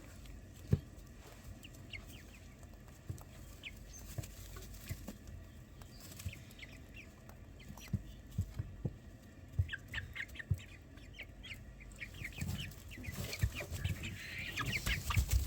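Faint clucking of poultry with scattered short high peeps from chicks and a few light knocks; the peeping gets busier near the end.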